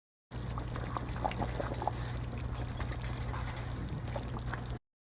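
Liquid gurgling with small scattered pops over a steady low hum. The sound starts abruptly just after the beginning and cuts off abruptly just before the end.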